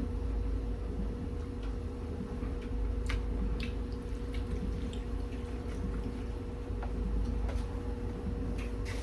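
A few small wet clicks and squishes from tasting a creamy cheese and chicken casserole mixture off a spoon, over a steady low hum.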